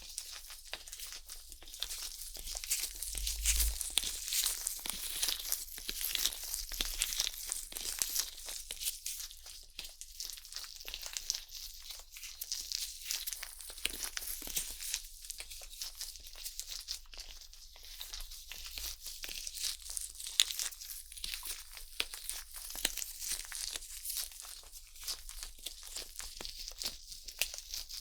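Stainless steel ear pick scraping and rubbing close on the rubber outer ears of a 3Dio binaural microphone: a dense, crackly scratching made of many quick strokes and small clicks.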